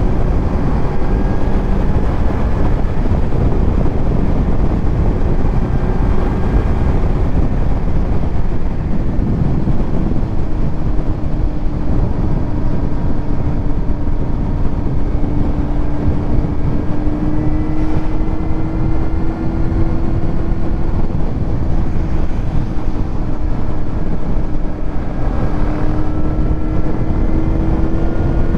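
Kawasaki Z900's inline-four engine with a titanium Arrow exhaust running at a steady cruise, its note sagging slightly midway and rising again near the end, under heavy wind rush on the microphone.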